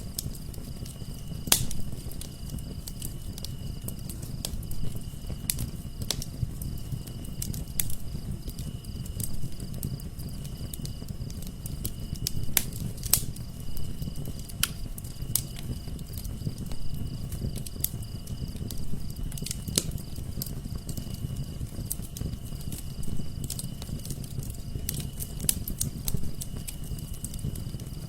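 Wood fire burning in a fireplace: irregular sharp crackles and pops over a low steady rumble of the flames. A steady high chirring trill runs underneath.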